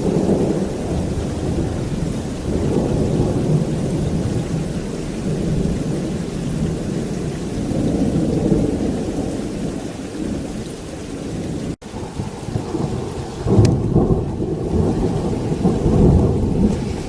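Thunder rolling continuously over heavy rain, the low rumble swelling and fading, with louder peals about two-thirds of the way through and again near the end. The sound cuts out for an instant a little past the middle.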